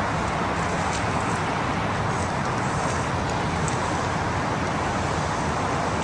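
Steady rushing background noise, even throughout, with a few faint ticks.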